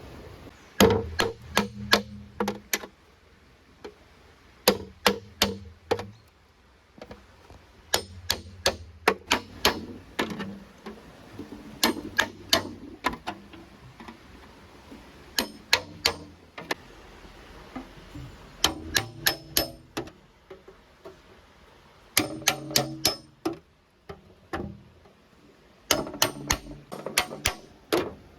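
Sharp knocks in quick groups of four to six, a group every three to four seconds.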